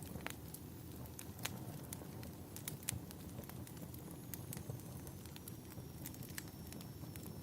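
Wood fire crackling in a fireplace: irregular sharp pops and snaps over a low steady rumble of the flames, with two louder pops about one and a half and three seconds in.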